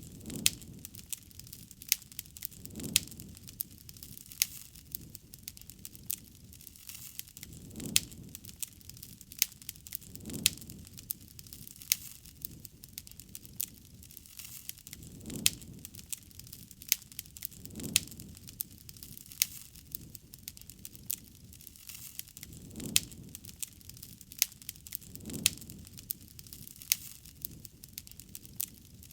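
Wood campfire crackling, with many sharp pops and snaps throughout. A soft low rush swells and fades every two to three seconds.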